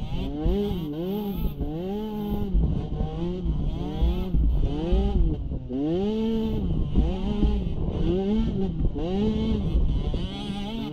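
Small youth ATV engine, revving up and easing off about once a second as the throttle is worked on and off.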